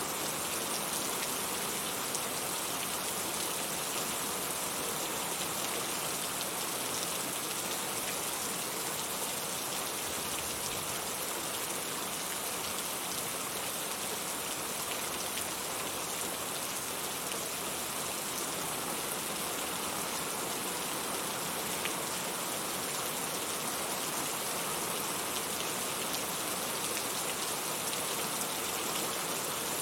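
Steady rain falling, an even hiss with many fine drop ticks, unchanging in strength.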